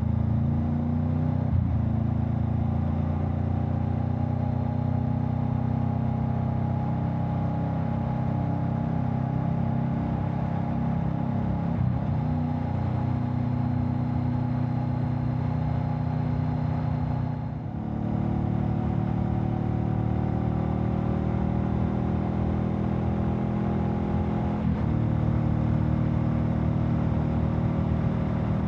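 Honda Rebel 500's parallel-twin engine running through an aftermarket Vance and Hines exhaust while riding at a steady pace. The note holds steady, dips briefly about two-thirds through, then settles at a new pitch, with another change near the end.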